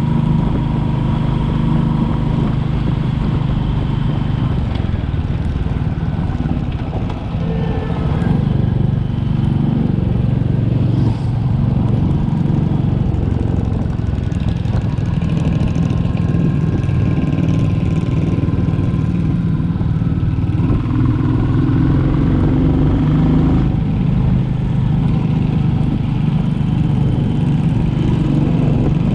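Royal Enfield Classic 350's single-cylinder engine running under way, steady, with a short dip in level about seven seconds in and small shifts in engine pitch later on.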